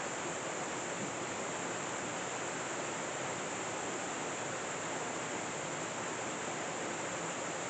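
Creek water rushing over a spillway, a steady, even rush.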